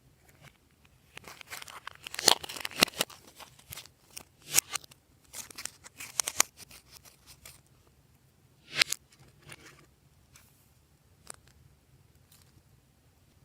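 Glossy slime being handled by hand, with bursts of sticky clicks, crackles and pops, loudest in the first half and thinning out to a few single clicks near the end.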